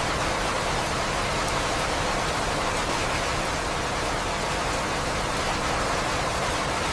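Steady rain falling, an even hiss of many drops with no distinct events.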